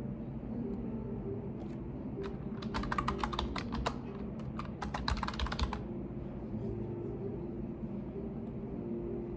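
Computer keyboard typing: a few single keystrokes, then two quick runs of keystrokes in the middle, over a steady low hum.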